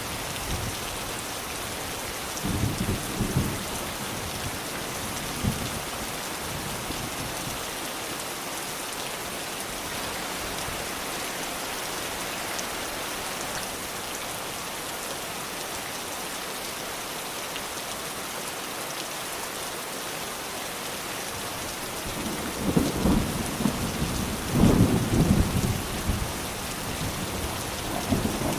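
Steady rain falling, with low rumbles of thunder: short ones about three and five seconds in, and a longer, louder roll of thunder near the end.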